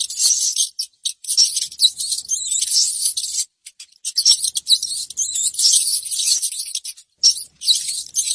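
Dwarf hamster chewing leafy greens: crisp, high-pitched crunching and nibbling in runs, broken by short pauses near the middle and near the end.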